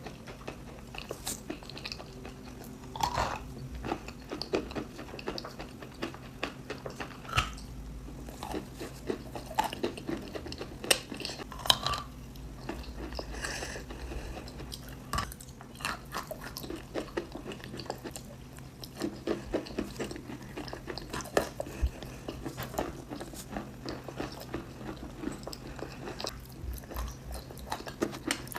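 Close-miked biting and chewing of hard edible chalk and clay with nuts: sharp crunches at irregular intervals, several to a second at times, with chewing in between.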